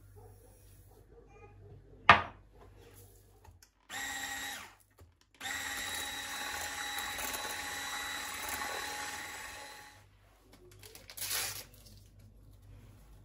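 A sharp click, then a small electric kitchen appliance motor running in a short burst and then steadily for about four and a half seconds before winding down, with a brief hiss near the end.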